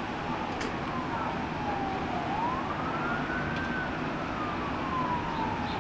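Emergency vehicle siren on a slow wail: the pitch slides down, climbs over about a second, then slowly falls again, over a steady background rush.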